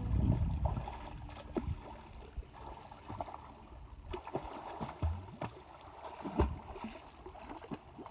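Flowing water of a brown, flood-swollen river, a steady rush with scattered knocks and splashes.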